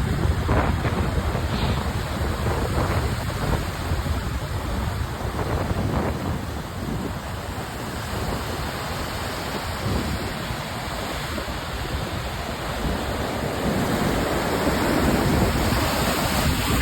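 Storm surf breaking on the shore, with strong wind gusting over the microphone in a low rumble. The rumble eases in the middle and builds again near the end.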